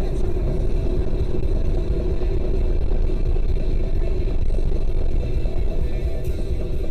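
Vehicle engine running steadily with a heavy low rumble and a steady drone.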